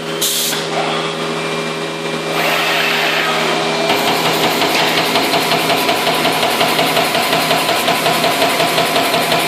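CNC turret punch press running with a steady motor hum. About four seconds in, it begins perforating sheet metal in a rapid, even series of punch strokes, like a machine gun.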